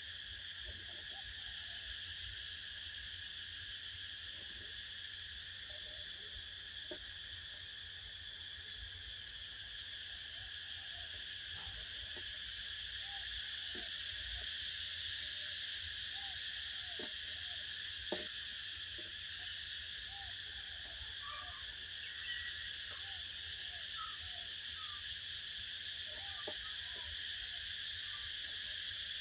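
Steady, unbroken high trill of an insect chorus, with scattered short, faint animal calls and a few soft clicks over it, and a low rumble underneath.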